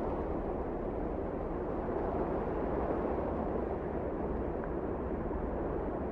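Wind blowing steadily: a dense, even rushing noise with a deep rumble underneath and no distinct gusts.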